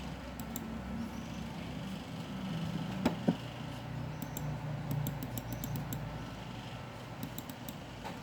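Computer mouse and keyboard clicks over a steady low hum: two louder clicks about three seconds in, then a quick run of light clicks.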